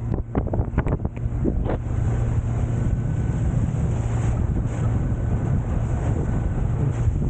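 Surf boat's motor running steadily underway, a constant low hum, with wind buffeting the microphone. A run of sharp thumps sounds in the first two seconds.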